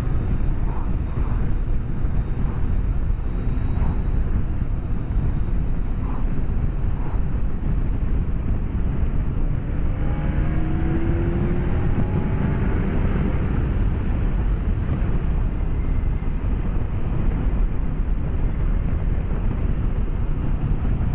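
Steady wind and road rush heard through a microphone inside a motorcycle helmet, under the BMW K1200S's inline-four engine. About ten seconds in, the engine note rises in pitch for a few seconds as the bike accelerates.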